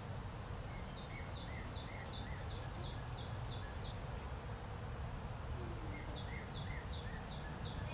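A songbird singing: two phrases of short high notes repeated about three a second, the first starting about a second in and the second about six seconds in. Under it runs a steady low background rumble.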